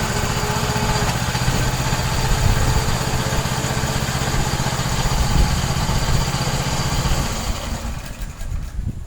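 Blue Bird sod cutter's gasoline engine running steadily under load with its cutting blade engaged, then dying down near the end.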